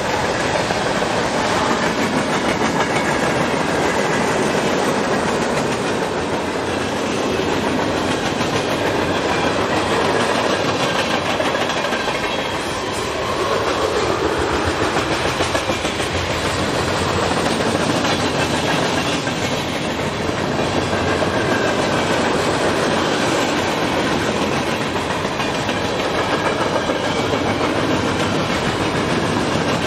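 Union Pacific freight train rolling steadily past, a continuous rumble and wheel-on-rail noise with no pauses.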